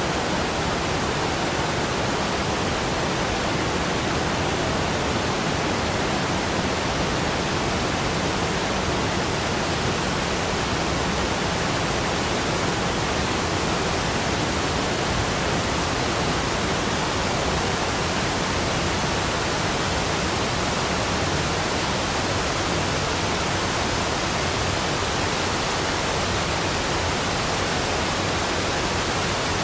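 Waterfall rushing steadily: an even, unbroken wash of falling-water noise with no changes.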